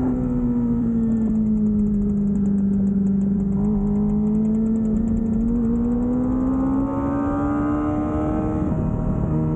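Kawasaki ZX-25R's inline-four engine under way. The revs ease down slightly and hold, climb steadily from about six seconds in, then drop away sharply near the end and settle.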